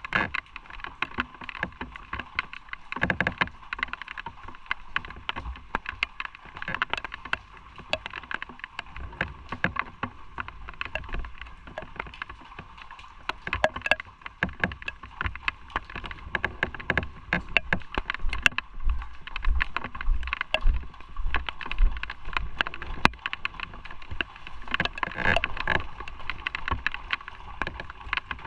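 Motorcycle running on the road, its engine sound mixed with steady crackling wind and road noise on the microphone; the low rumble swells and falls in places.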